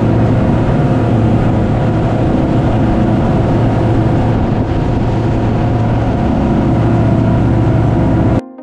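A 40-foot Intrepid center console's outboard engines running at speed: a loud, steady engine tone under dense rushing noise, which cuts off suddenly just before the end as music starts.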